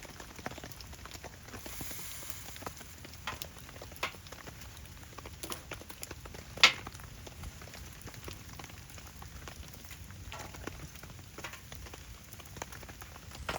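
Wood fire crackling with irregular pops, one sharper pop about six and a half seconds in, over a light patter of rain.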